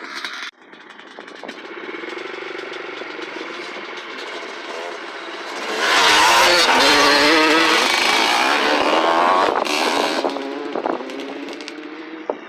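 Off-road motorcycle engine revving as the bike comes nearer, loudest for a few seconds past the middle with the pitch rising and falling through the gears and throttle, then fading as it rides off.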